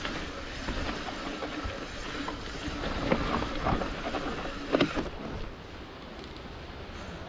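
Hardtail mountain bike riding down a trail: a steady rush of tyre and trail noise with scattered rattles and knocks. There is a sharp clunk just before five seconds in, and the noise eases off soon after.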